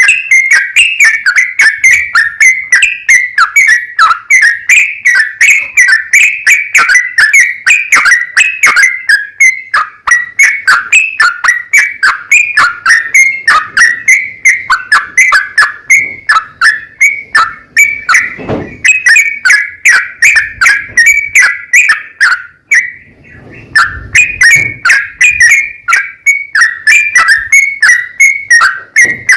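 Yellow-vented bulbul (trucukan) singing loudly in a long, rapid run of repeated chattering notes, the extended 'ropel panjang' song used as a lure to make caged bulbuls answer. The run breaks off briefly about 23 seconds in, then resumes.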